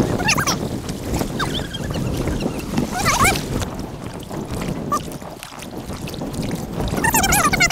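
Sped-up audio of kayaking on a river: a steady rush of water and wind noise, broken by clusters of brief, high, squeaky chirps about a third of a second in, around three seconds in, and near the end.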